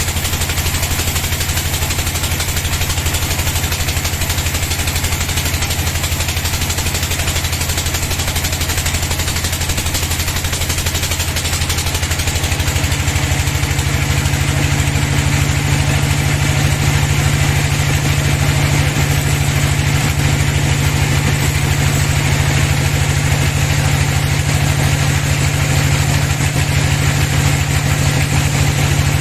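Sawmill band saw running steadily, a loud machine hum with a hiss over it; the hum steps up to a higher pitch about twelve seconds in and holds there.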